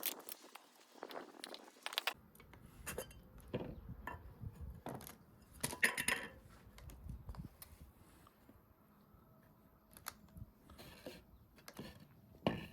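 Irregular clinks and knocks of dishes and utensils being handled, a few of them louder, about six seconds in and near the end.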